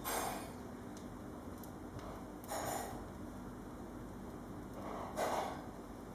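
Wood fire in an open fireplace crackling faintly, with three short rushes of hiss about two and a half seconds apart.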